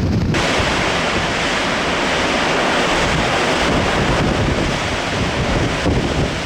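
High wind of a dust storm blowing hard over the microphone: a loud, steady rushing hiss with heavy low buffeting. It turns suddenly brighter just after the start.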